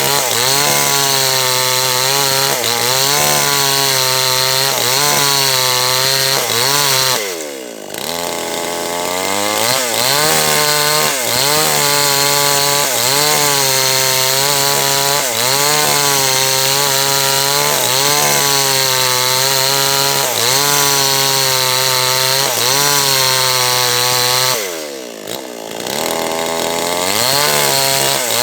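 Small two-stroke H&L Pro 5800 chainsaw cutting a large teak log, the engine at high revs with its pitch wavering as the chain works in the wood. Twice, about a quarter of the way in and again near the end, the revs fall off briefly and then climb back up.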